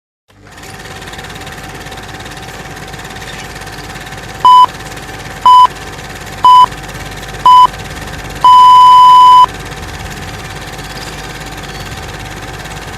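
Electronic countdown beeps: four short high beeps a second apart, then one long beep of about a second, over a steady rumbling background noise.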